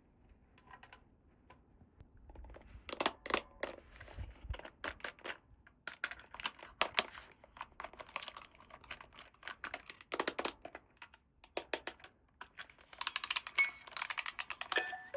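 Small plastic toy pieces and packaging being handled: irregular sharp clicks and crinkles, denser near the end.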